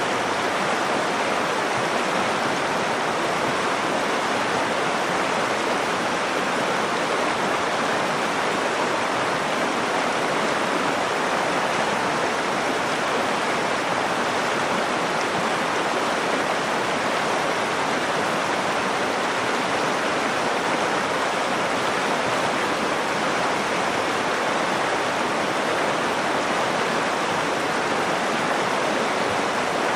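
Nakdong River water flowing, a steady, even rush of moving water with no change throughout.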